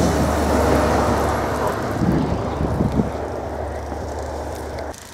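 A vehicle passing close on a snowy road: a rushing noise of tyres in slush over a low engine hum, loudest at first and fading as it moves away, then cutting off abruptly near the end.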